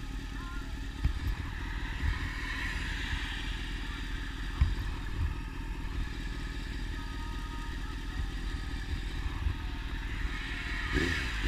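Honda CBR600 inline-four sport bike with a slip-on exhaust running steadily at low revs, with no revving.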